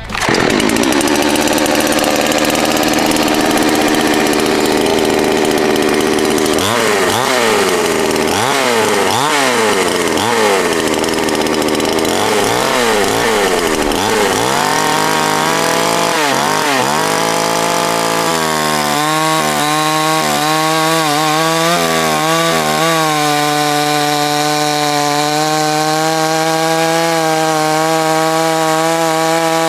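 Pinkway gas chainsaw running loud during a warm-up cut into a log. The engine holds steady for the first few seconds, then its pitch rises and falls over and over for about ten seconds, then holds a steady high speed.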